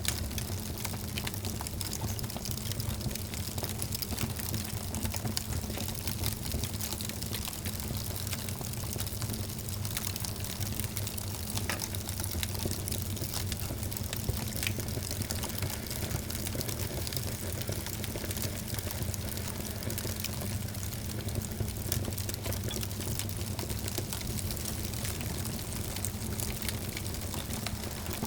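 Fireplace fire burning and crackling: a steady hiss with frequent small snaps and pops all through.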